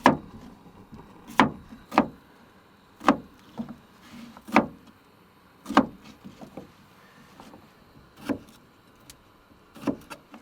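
A series of about a dozen sharp knocks and clacks, irregularly spaced roughly a second apart: cooking gear and food being handled and set down on a hard surface.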